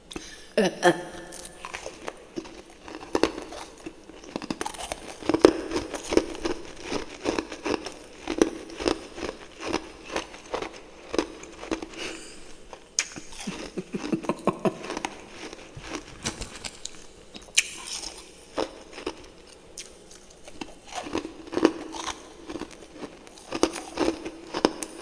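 Close-up crunching and chewing of refrozen freezer frost topped with fresh powdery frost: many irregular crisp crackles and crunches as it is bitten and chewed.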